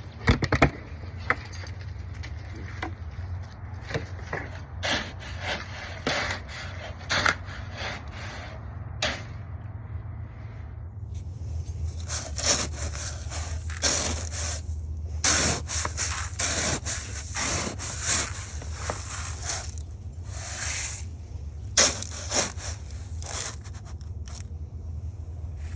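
Irregular scraping, crunching and rustling from a person moving about and handling things, over a steady low rumble; the strokes grow denser and brighter about halfway through.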